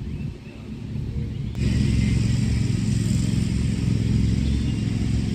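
A motor runs steadily with a low hum, cutting in suddenly about one and a half seconds in.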